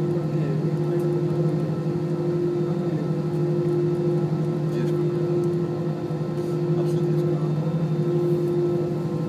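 Steady drone of an Airbus airliner's Rolls-Royce jet engines heard inside the passenger cabin: an even low hum with a held tone above it, neither rising nor falling.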